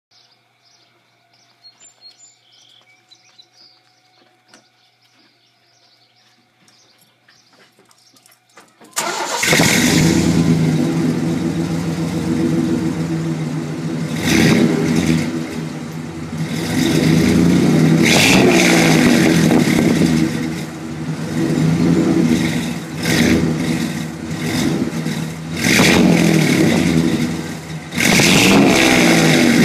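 Chevy 1500 pickup's V6 engine starting about nine seconds in, then running loudly through its exhaust and being revved up several times.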